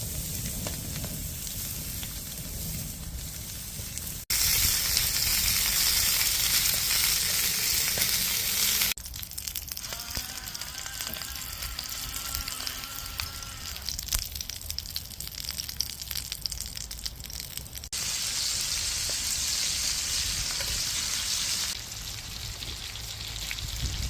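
Whole pork belly and kimchi sizzling in a cast-iron pan heated over a wood fire. The hiss changes abruptly between shots and is loudest from about four to nine seconds in and again from about eighteen to twenty-two seconds in.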